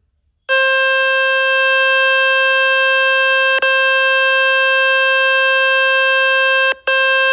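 Loud, steady buzzing tone played by the Fix My Speaker website to shake water and dust out of a Samsung Galaxy F06's phone speaker. It starts about half a second in and breaks off briefly near the end before carrying on.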